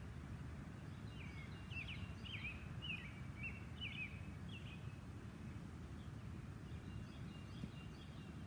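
A songbird singing a string of about eight quick, slurred chirps over a few seconds, with a few fainter notes later, over a steady low outdoor rumble.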